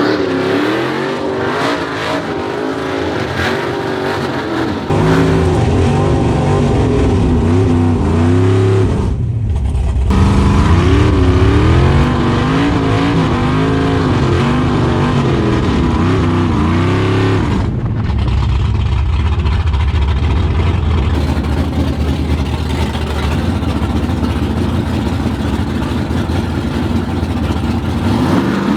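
A drag-racing vehicle's engine running loud, its pitch wavering up and down as it is revved. In the last stretch it settles into a steadier, lower run.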